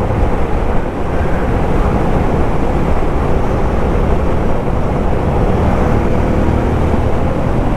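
Suzuki motorcycle engine running steadily while riding a gravel highway, with tyre and wind noise.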